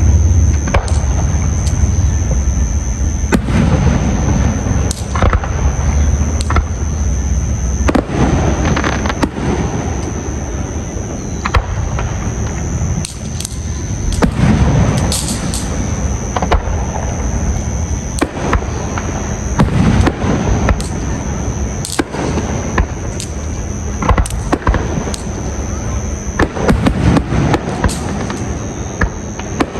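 Fireworks display: a continuous run of booming bursts and crackling, sometimes several bangs a second, over a steady high-pitched tone.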